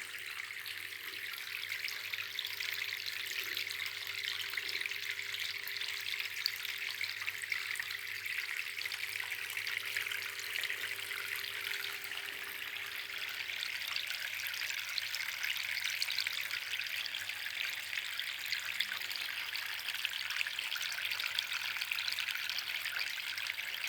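Small tabletop flowerpot-waterfall fountain running: water trickling and splashing steadily from pot to pot, with a faint steady hum underneath.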